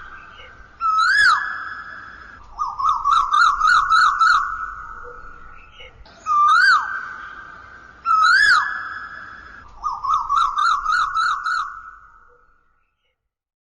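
A high, whistle-like warbling call repeating in phrases: bursts of quick trills alternate with single rising-then-falling swoops. It fades out shortly before the end.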